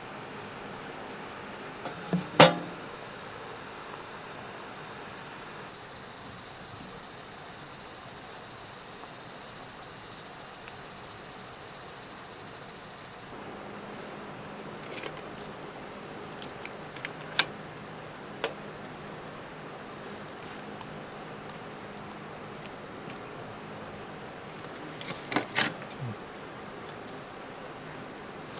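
Summer outdoor ambience: a high insect buzz over a steady rushing haze of creek water. The buzz is strongest early on and thins about thirteen seconds in. A few sharp knocks or clicks break through, the loudest about two seconds in and a short cluster near the end.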